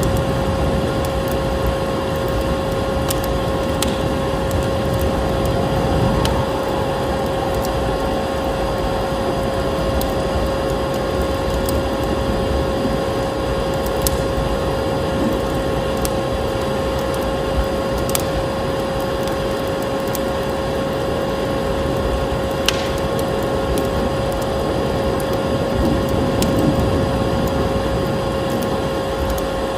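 Vacuum cleaner running steadily with a constant motor whine, mixed with the crackling of a wood fire in a fireplace and a sharp pop every few seconds.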